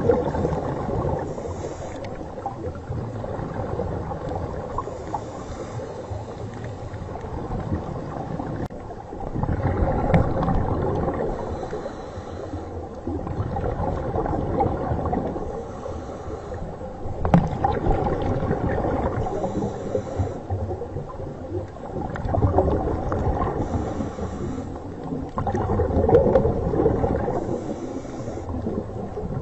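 Low, rumbling, gurgling water noise, like sea water heard underwater, swelling louder every several seconds.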